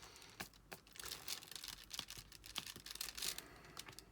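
Faint, irregular clicks and taps of a diamond-painting pen and tools pressing resin drills onto the sticky canvas, with light plastic crinkling.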